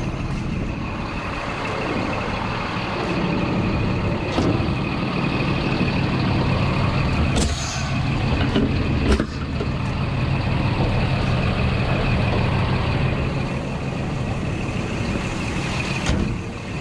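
Old Scania truck's diesel engine running steadily at low speed while maneuvering, with a few short sharp sounds about four, seven and nine seconds in.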